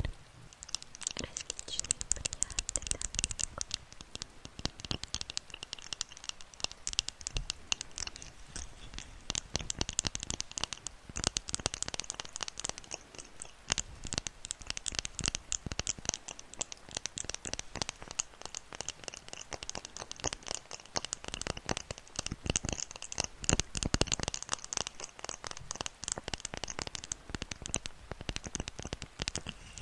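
ASMR trigger sounds close to a microphone: a dense, steady stream of small scratchy, crinkly crackles that runs without pause.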